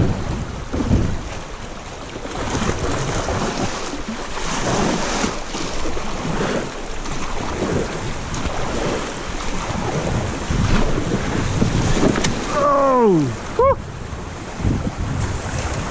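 Rushing water and splashing around a kayak running a river rapid, with wind buffeting the microphone. About twelve seconds in, a person lets out a long cry that falls in pitch, followed by a short second one.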